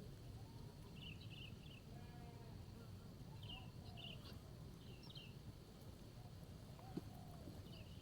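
Faint bird calls outdoors: short groups of high chirps every second or two, with softer lower calls between them, over a low steady rumble. A single sharp tick sounds near the end.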